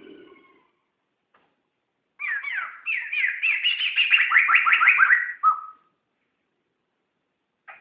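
Poksay (laughingthrush) singing: after a faint short call at the start, a fast run of loud, downward-sliding notes begins about two seconds in and lasts some three seconds, ending on a short lower note. A new phrase starts just at the end.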